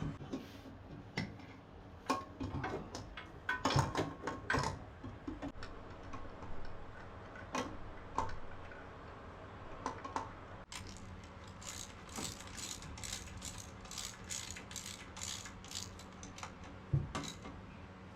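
Hand ratchet wrench clicking in short strokes as the new starter is bolted up under the truck, with scattered metal clanks of tools and parts. The clicking runs at about four a second through the second half, with a single louder knock near the end.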